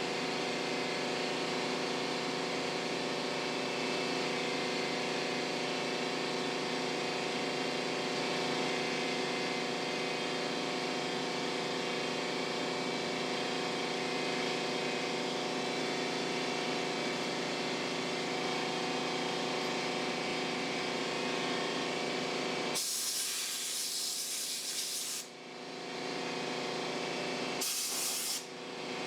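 A steady machine drone of many fixed tones, broken near the end by two bursts of spraying hiss: one about two seconds long, then a shorter one.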